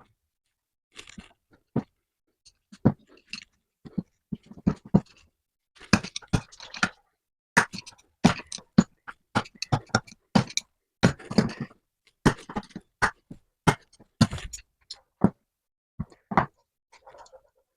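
Irregular sharp knocks and clinks of metal parts and hand tools, a few to several a second with short pauses, while the small swivel bench vise is handled and worked on.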